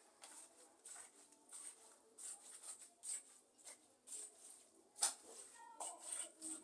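Irregular scraping and rustling, a few short sounds a second, with one sharper click about five seconds in: the handling of soil and a plant pot during repotting.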